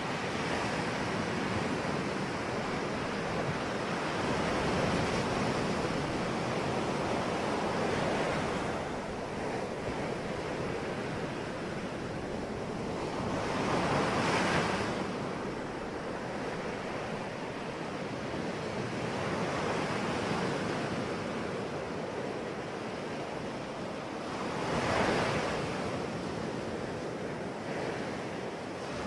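Sea waves breaking on a shore, a continuous wash of surf that swells louder twice, about halfway through and again near the end.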